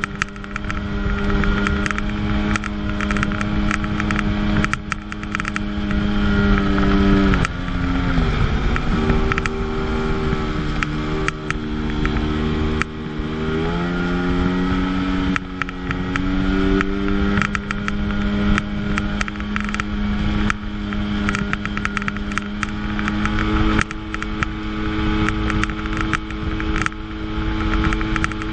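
1997 Sea-Doo GTS personal watercraft's 720 two-stroke twin engine running at a steady cruising speed on the water. About eight seconds in the pitch falls as the throttle eases, wavers lower for a few seconds, then climbs back up. Short knocks and slaps from the hull on the water come through throughout.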